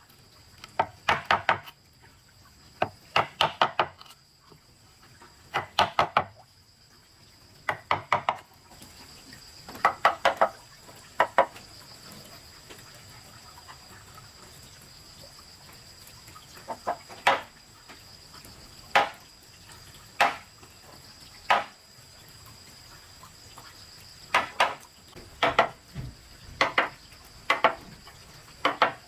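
Wood struck repeatedly with a hand tool, in bursts of several quick blows, a quieter gap about halfway, then single blows and more bursts near the end. Insects keep up a steady high drone throughout.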